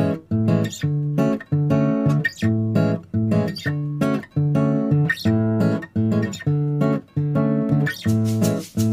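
Background music: a rhythmically strummed acoustic guitar playing a repeating chord pattern with a steady beat.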